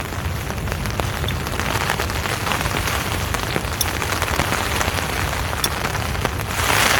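Heavy rain falling steadily, a dense hiss full of single drop ticks over a low rumble.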